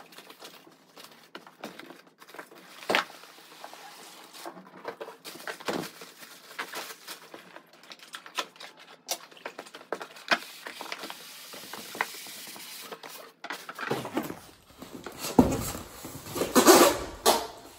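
Packaging being handled and opened: scattered clicks, scrapes and rustles, busiest and loudest near the end.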